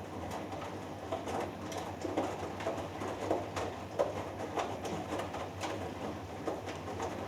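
Hoover Dynamic Next front-loading washing machine washing: the drum turns a 3 kg cotton load through water, giving irregular soft sloshes and thuds over a steady low motor hum.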